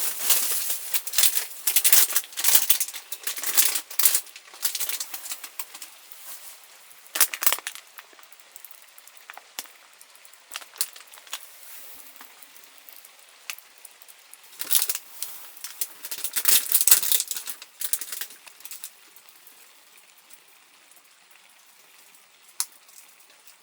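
Irregular rustling and sharp clicks of small objects being handled, in busy clusters with quieter stretches between.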